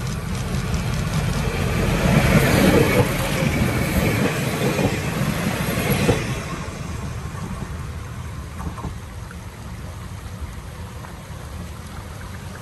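Diesel railcar train (DR2102 + 2404) running on the track. Its engine and wheel noise grow to the loudest about two seconds in, fall away sharply around six seconds, then die down slowly, like a train passing by.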